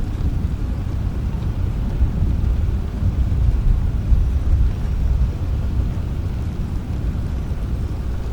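Rain with a deep, steady rumble of distant thunder that swells a little around the middle.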